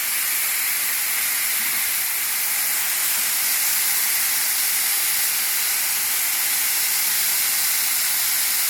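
Marinated pork belly sizzling on a grill: a steady, even hiss that holds at one level.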